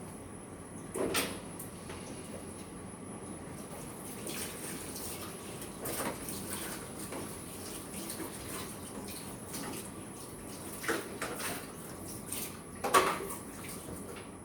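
Raw chicken being washed and rubbed with salt in a basin: water sloshing and handling sounds, with a few knocks of the bowl or utensils, the loudest near the end.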